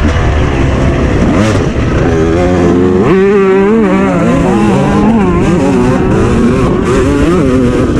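Dirt bike engines revving hard, pitch rising and falling repeatedly as the throttle is worked, with a sharp climb about three seconds in.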